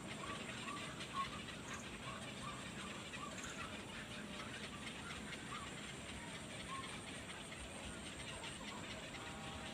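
Faint short bird chirps, repeated irregularly, over a steady background hiss.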